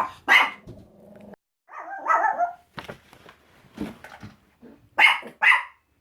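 Dogs barking in short separate barks, with two loud sharp barks about half a second apart near the end.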